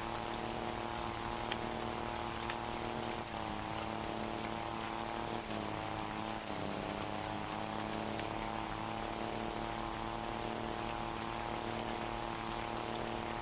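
Scania 540 truck engine with a straight-pipe exhaust running steadily under way, its pitch dipping and picking back up a few times in the middle, as with gear changes or lifts of the throttle.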